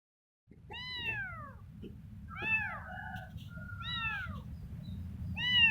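Kitten meowing four times, roughly once every second and a half, each call arching up and then falling in pitch, over a steady low background rumble.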